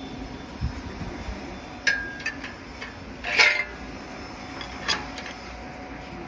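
A few sharp metal clinks and taps from hand tools on the bell housing, the loudest a short rattling cluster about three and a half seconds in, over a steady low hum.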